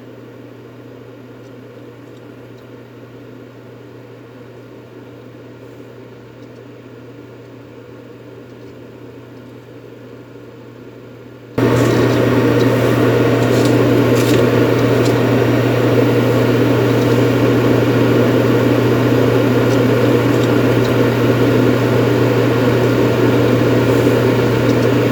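Steady white-noise track: a continuous machine-like hiss over a low, even hum. About eleven seconds in it jumps abruptly much louder and carries on steady at the new level.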